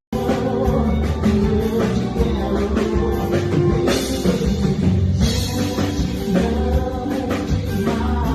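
Live brega band music with a singer and a drum kit, played at a soundcheck.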